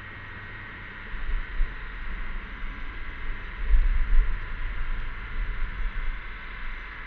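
A steady, droning chorus of cicadas. A low rumble of wind buffeting the microphone comes and goes underneath, strongest about four seconds in.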